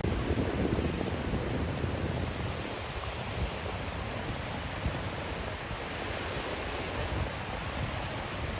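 Steady hiss of white noise, with a deeper rumble that fades out over the first two or three seconds.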